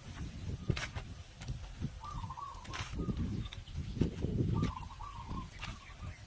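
Short wavering bird calls, about two seconds and again about four and a half seconds in. Scattered sharp knocks and a low rustling stretch run underneath, loudest from about three to four and a half seconds in.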